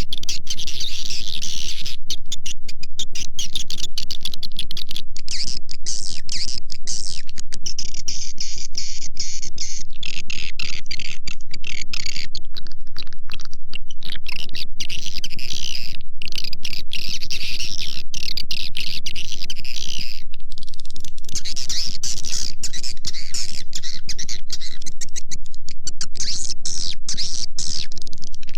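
Recorded swiftlet calls played as a lure: dense, high-pitched chirping and twittering, broken by many brief gaps, over a steady low hum.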